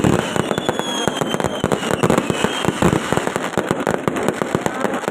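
Fireworks going off in a dense, rapid string of bangs and crackles, with a few faint falling whistles.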